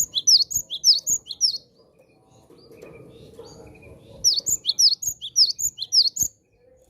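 Cinereous tit (gelatik batu) singing in full voice: two phrases of rapidly repeated high, sharply down-slurred notes, about four to five a second, the second phrase beginning about four seconds in.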